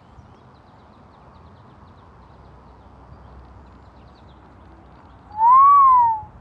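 A person whistling two loud, pure notes near the end: one that rises and falls over about a second, then a short sharply rising one, as a signal to the eagle. A faint steady outdoor hiss underlies the rest.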